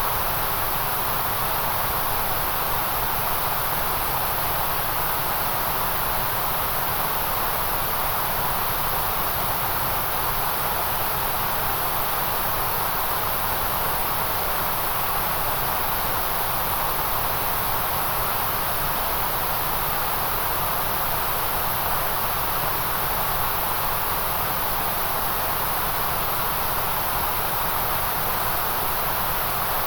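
Generated white noise: an even, unchanging hiss that does not vary over time, with most of its energy in the middle and at the very top of the range.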